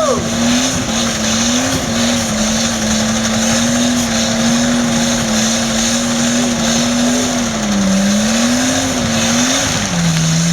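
Nissan Skyline R34's engine held at steady high revs, its pitch wavering and dipping twice near the end, over a continuous noisy wash.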